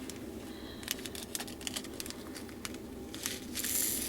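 Small plastic packets of diamond-painting drills crinkling as they are handled, with scattered light clicks of the drills. The crinkling grows louder near the end.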